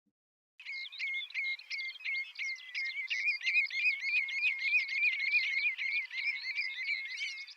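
A songbird singing one long, fast run of repeated chirping notes, starting about half a second in.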